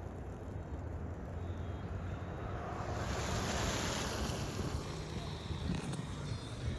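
Wind rushing over the microphone in a snowstorm, with a low rumble throughout. A gust swells loud about three seconds in and eases off a couple of seconds later.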